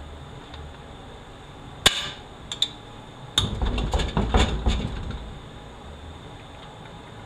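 Metal knocks and clanks from work on a 4L80E automatic transmission: one sharp hammer-like strike, two light clicks, then a quick run of heavy knocks.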